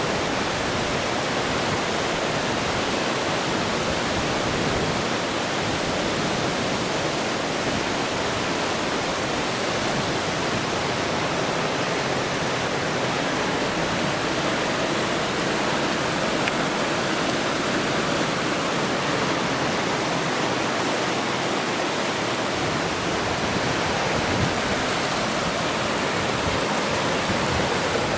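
Water rushing steadily, an even, unbroken hiss with no separate splashes or changes.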